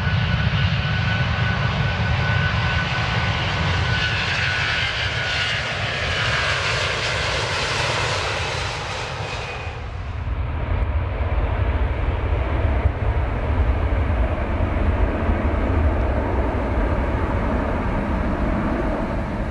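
Airliner engines running at takeoff power: a steady low rumble with a high whine and hiss on top. The high whine cuts away about ten seconds in, leaving the low rumble.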